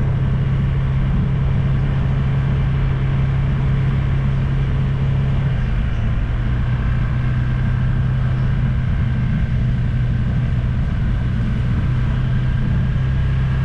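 Motor scooter's small engine running at a steady cruising speed, heard from a GoPro mounted on the scooter, with road and wind noise. The engine note dips slightly a little under halfway through and rises again near the end.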